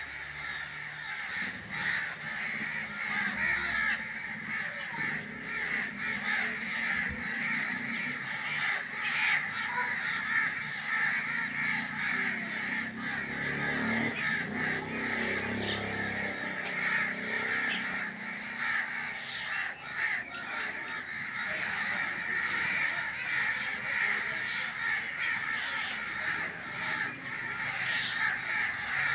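A large flock of birds calling all at once: a dense, unbroken chorus of many overlapping calls.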